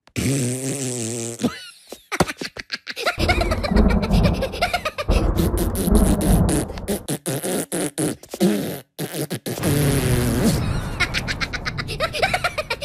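Cartoon sound effects: a wavering comic blat for the first second and a half, then several seconds of dense crackling electric zapping with a heavy low rumble as the wrong wheel is zapped. Cartoon voices jabber near the end.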